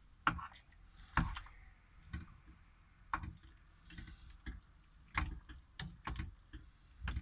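Irregular sharp knocks and clicks of a kitchen knife on a cutting board, as a block of firm smoked tofu is cut into small cubes, about ten strikes at uneven intervals.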